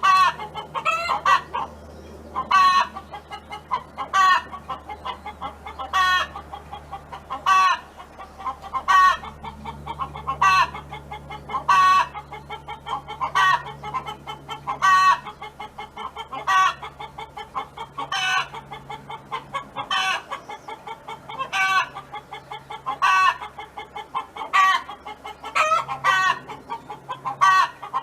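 Domestic hen clucking and calling over and over, a loud call about every second and a half with softer clucks between, over a faint steady low hum.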